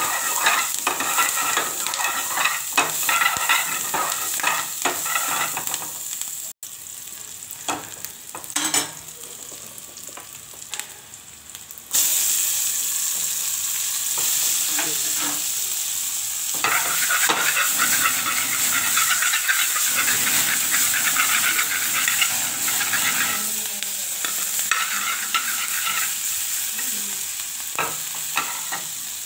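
Chopped onions, green chillies and tomatoes sizzling in oil in a metal frying pan, with a steel ladle stirring and scraping against the pan. The sizzle drops quieter for a few seconds in the middle, then comes back louder with more stirring.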